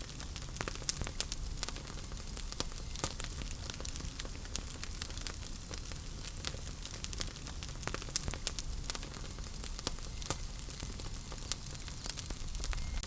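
Wood fire crackling in a fireplace: irregular sharp snaps and pops over a steady low rumble and hiss of the flames.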